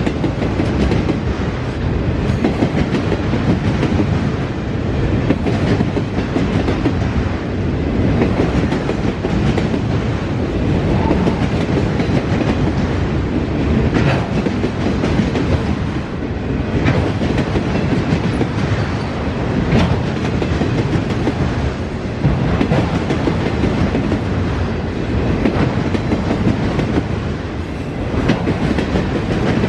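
Norfolk Southern freight train's cars rolling past, a steady rumble with wheels clicking over the rails.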